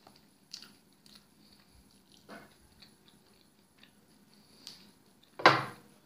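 Close-up chewing of a bite of pizza topped with Flamin' Hot Cheetos: soft crunches and mouth sounds every second or so. Near the end comes one loud, sudden handling noise as a hot sauce bottle is picked up off the table.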